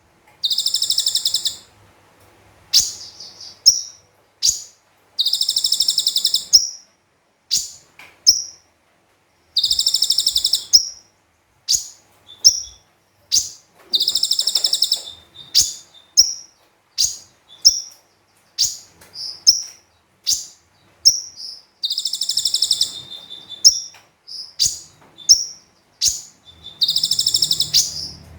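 Konin (kolibri ninja sunbird) singing: very high, rapid trills about a second long, seven of them, repeated every few seconds between short, sharp high chirps.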